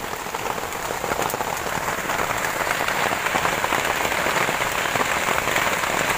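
Steady rain falling, a dense patter of drops that gets a little louder about two seconds in.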